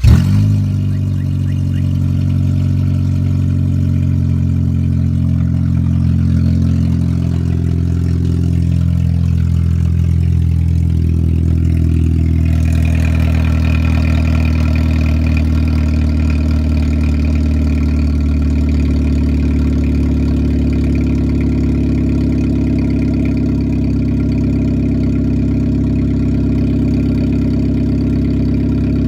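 Chevrolet Cavalier engine starting and then idling loudly and steadily through an open exhaust, the pipe cut and the catalytic converter stolen.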